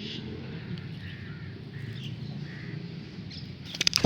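Scattered short bird calls over a steady low background hum, with a brief clatter of sharp clicks near the end.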